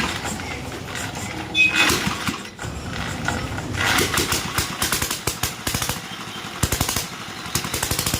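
Sooraj diesel motorcycle engine starting and running, its firing uneven at first and then falling into short spells of a fast, regular beat near the end.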